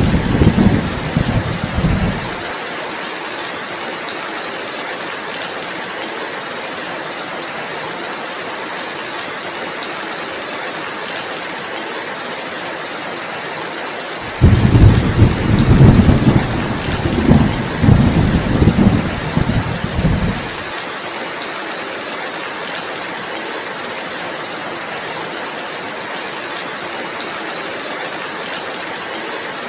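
Heavy rain falling steadily, with rolls of thunder: one rumble dies away about two seconds in, and a longer one rolls from about 14 to 21 seconds in.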